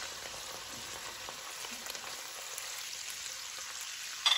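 Tiger prawns frying in olive oil with sliced garlic in a pan: a steady sizzling hiss, with a sharp click near the end.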